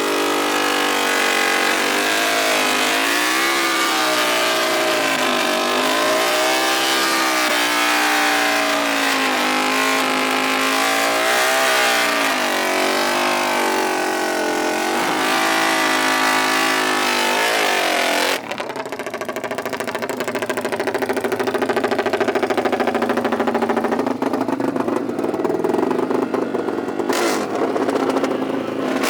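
Small off-road racing engine revving up and down repeatedly. About 18 seconds in, the sound changes abruptly to a quieter engine running more steadily.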